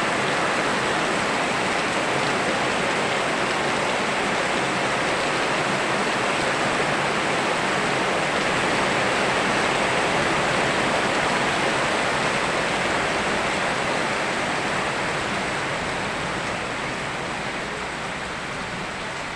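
Steady rushing water, river flow and rain blended into an even hiss, easing a little in level over the last few seconds.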